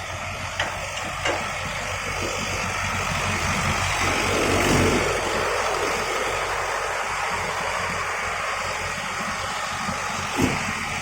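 Vehicle engine idling steadily, swelling briefly about four seconds in, with a few short sharp clicks near the start and again near the end.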